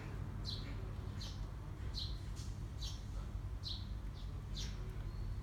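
A small bird chirping repeatedly, short high chirps about once or twice a second, over a low steady background rumble.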